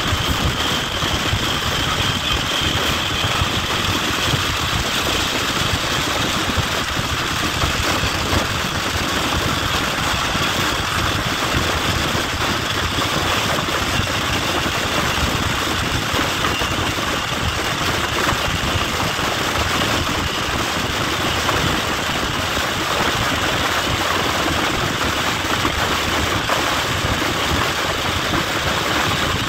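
Steady rush of a passenger train carriage running at speed, heard at an open window: wheels on the rails and the air streaming past, with wind on the microphone.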